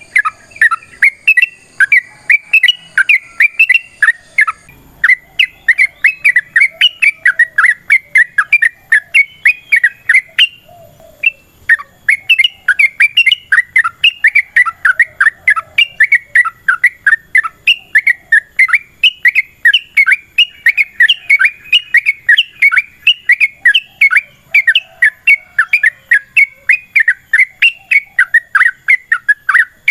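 Yellow-vented bulbul (trucukan) singing a long, fast, aggressive run of loud bubbly chirps, several notes a second, broken by one short pause about ten seconds in.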